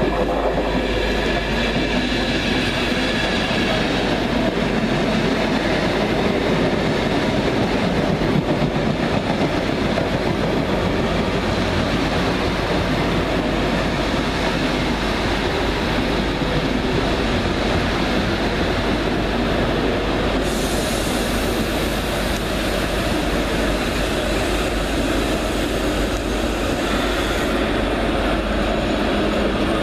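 Greater Anglia Mark 3 coaching set with a Class 90 electric locomotive pushing at the rear, rolling along the platform: a steady rumble of wheels on rail with some clickety-clack. About two-thirds of the way through, a high hiss joins for several seconds and then stops.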